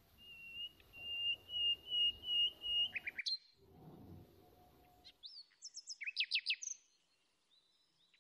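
Small birds chirping. A high, steady trilling note holds for about three seconds and ends in a few quick falling notes. After a short pause comes a burst of rapid chirps, and the sound dies away near the end.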